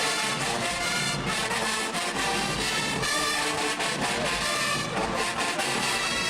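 HBCU marching band playing, with the brass section to the fore over drums.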